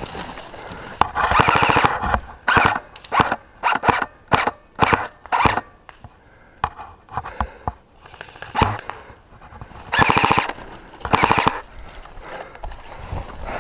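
Airsoft electric rifle firing: a long full-auto burst, then a run of short bursts about two a second, a single crack, and two more long full-auto bursts near the end.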